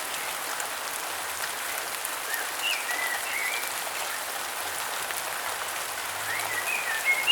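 Steady rain falling, with a bird singing short warbling phrases twice: a couple of seconds in and again near the end.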